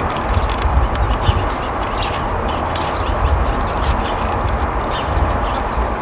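Small wild birds chirping with many short, quick calls over a steady hiss and low rumble.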